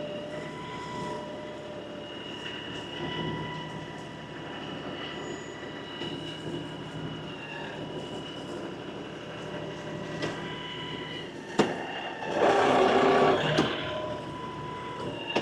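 LS XR315 compact diesel tractor running under work, with steady whining tones over the engine noise. Near the end comes one sharp clank, followed by a louder pitched whine that lasts about a second.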